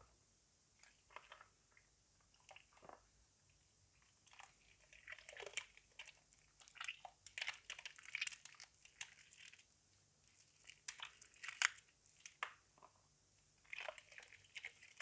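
Soft soaked laundry soap in a basin being crushed and worked, giving irregular short crackles and crunches, sparse at first and thickest in the middle.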